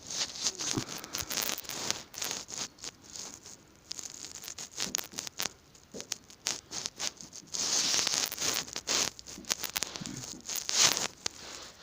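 A cat scuffling and clawing at a hand: irregular rustling and scratching with quick sharp clicks, in uneven spells, louder about eight seconds in and again near the end.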